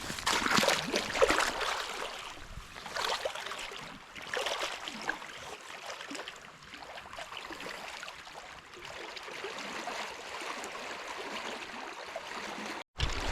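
Stream water running steadily over a riffle, with a few louder irregular scuffs and knocks in the first few seconds.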